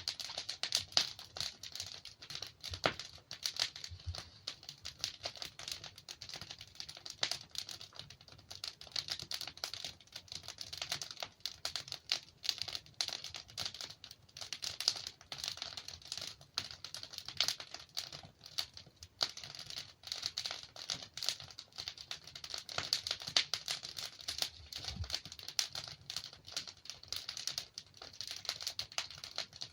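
Wood fire crackling steadily, with dense small snaps and occasional louder pops from burning logs.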